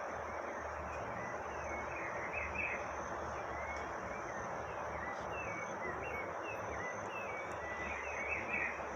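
Outdoor ambience: a steady high insect buzz over a constant background hiss, with short bird chirps scattered throughout, a little louder about two and a half seconds in and near the end.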